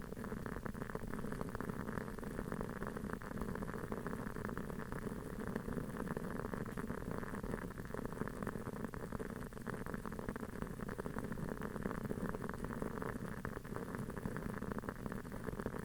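Wooden wick of a large aroma candle burning with a steady, dense crackle of fine pops, like a small campfire.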